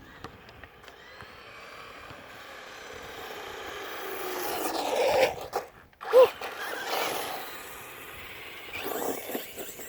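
Traxxas Rustler VXL RC truck's brushless motor whining with tyre noise, growing louder over about five seconds as it runs toward the microphone. It cuts out briefly near the middle, then comes back with a sharp loud burst and runs on more quietly.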